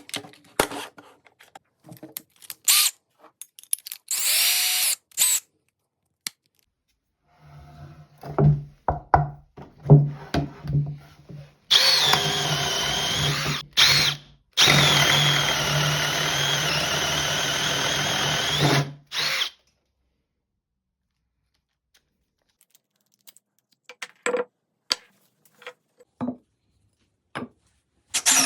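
Power drill turning a hole saw: a few short trigger bursts, then a sustained cut of about eight seconds with a wavering high whine, briefly interrupted once. Scattered clicks and handling knocks come before the cut and after it.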